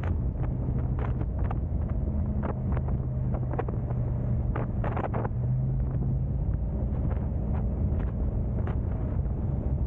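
A car driving on the road, its engine and tyre noise a steady low rumble with an even hum. Wind buffets the microphone, and short taps and clicks come at scattered moments.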